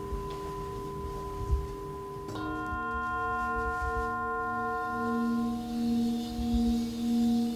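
Tibetan singing bowls ringing. One bowl is struck about two seconds in, its bright overtones fading over a few seconds, and from about halfway a low bowl tone pulses in a slow wah-wah beat, swelling and fading about once a second. There is a brief soft knock early on.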